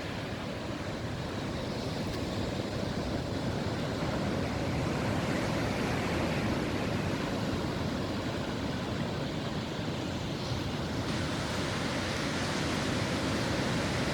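Steady wash of ocean surf breaking on a beach, with some wind on the microphone.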